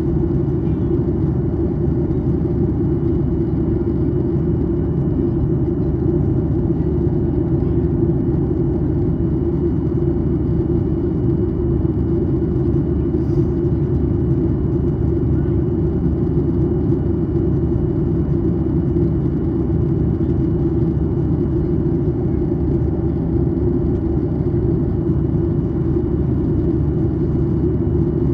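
Steady in-cabin noise of a Boeing 737-800 in descent: a loud, even rumble of airflow and its CFM56-7B engines, with a thin steady high whine over it.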